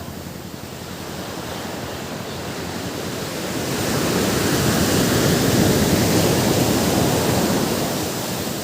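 Ocean waves on a beach: a wave builds, breaks and washes up over several seconds, swelling to its loudest in the middle and fading near the end.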